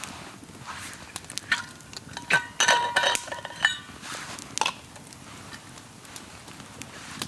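Metal cookware and utensils clinking, with a cluster of short ringing clinks in the middle, over the scattered light crackle of a small campfire.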